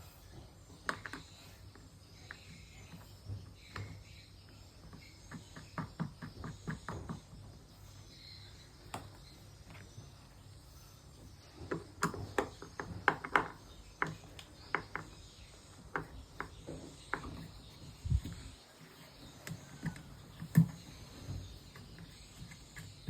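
Irregular clicks and knocks of hand tools and parts being handled during reassembly of a twin-tub washing machine's gearbox and pulley drive, in scattered clusters with one sharper knock near the end.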